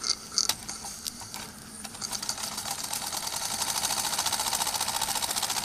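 Gas-fired model steam traction engine starting up out of gear after a couple of sharp clicks: about two seconds in its exhaust beats pick up into a fast, even ticking that grows louder and settles as it ticks over running light.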